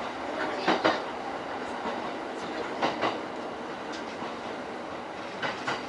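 E231-series electric commuter train running on the line, heard from inside the leading car: steady rolling noise with three short clusters of wheel clacks over rail joints.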